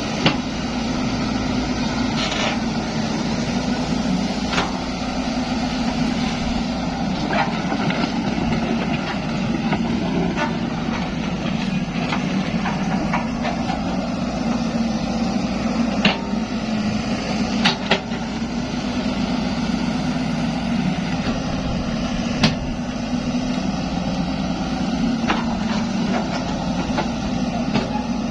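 Zoomlion excavator's diesel engine running steadily, with short sharp knocks every few seconds.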